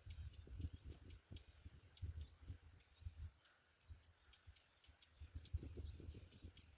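Faint outdoor ambience: many short, high chirps of small birds over irregular low rumbles, with a thin steady high tone throughout.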